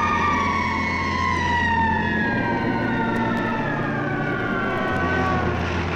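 A siren wailing: one wavering tone that peaks at the start and then slowly falls in pitch over about five seconds, over a steady low hum.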